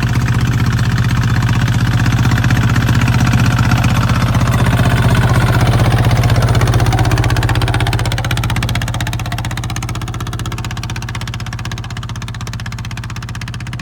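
Kubota ZT155 tractor's single-cylinder diesel engine running steadily with a rapid, even knock of firing strokes. It grows gradually quieter over the second half.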